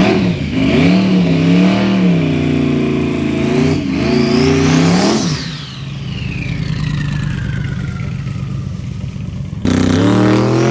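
Drag race car engine revving hard and then accelerating away, its pitch climbing steeply before a long falling whine as it pulls away down the strip. About a second before the end, loud engine revving starts again abruptly.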